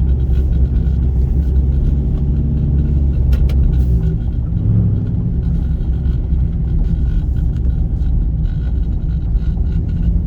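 Cammed 2009 Pontiac G8 GT's 6.0-litre V8, with headers and a full exhaust that still has its catalytic converters, rumbling as heard from inside the cabin while driving. The note changes pitch about four seconds in.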